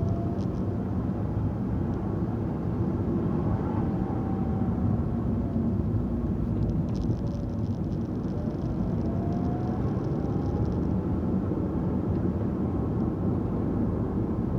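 Car driving at low speed, heard from inside the cabin: a steady rumble of engine and tyres on the road, with a faint rising and falling whine now and then.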